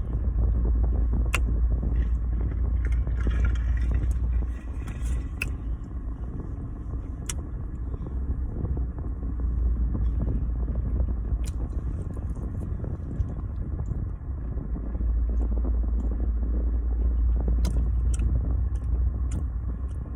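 A low rumble, heavy for the first four seconds and again over the last five, with scattered sharp clicks from eating and drinking close to the microphone.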